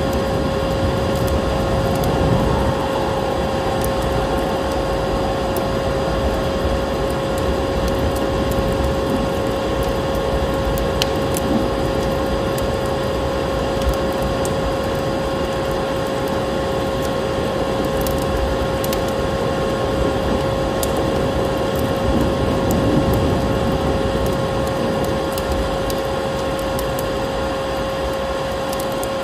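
Vacuum cleaner motor running steadily, a constant hum and whine under a rushing noise, with a wood fire crackling in scattered sharp pops over it.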